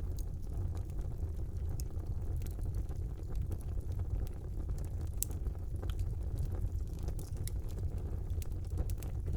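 Wood fire burning in a brick fireplace: a steady low rumble of the flames with irregular sharp crackles and pops from the burning logs, one louder pop about five seconds in.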